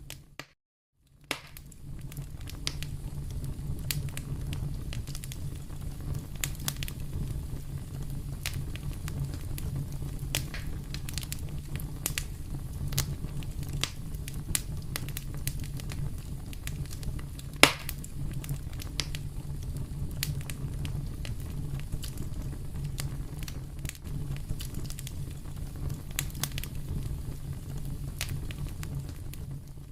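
Wood fire in a fireplace crackling: a steady low rumble under frequent small pops, with one sharp, louder pop about two-thirds of the way through. The sound cuts out briefly about half a second in.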